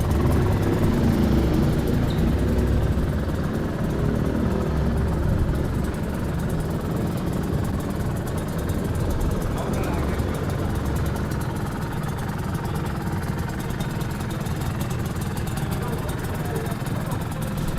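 Aprilia RS250's two-stroke 250 cc V-twin, fitted with a Tyga Performance exhaust, running steadily at idle. Voices can be heard alongside it.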